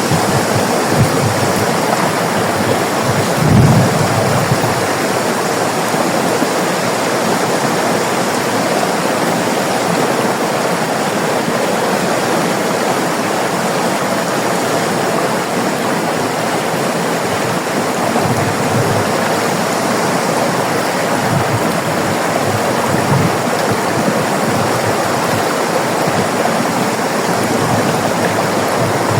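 River water flowing over rocks in a steady, dense rush, with a brief deeper surge about three and a half seconds in.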